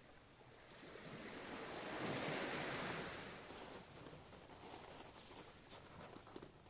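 Ocean wave breaking on the shore: the surf noise swells to a peak about two seconds in, then subsides into a softer fizzing wash with small crackles.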